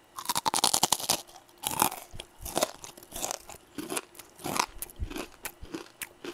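Close-miked crunching of fried chicken's crispy batter as a person bites and chews, a dense crackle in the first second, then a string of separate crunchy chews.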